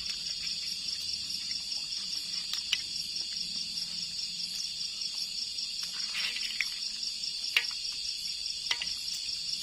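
Steady chorus of night insects, a fine high trilling that never lets up, with a few sharp clicks, the loudest about three-quarters of the way through.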